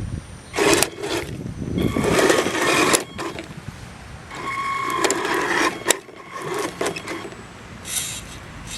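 Kyosho Blizzard SR radio-controlled snowcat's electric drive motors and gearboxes whining in about five short stop-start bursts as the tracked model is driven in spurts.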